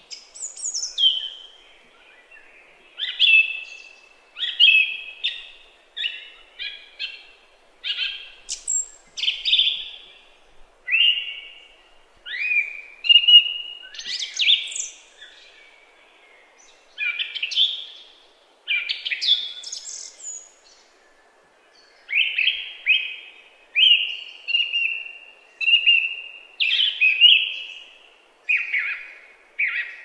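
Bird song: short, varied phrases, each about a second long, following one another with brief pauses between them.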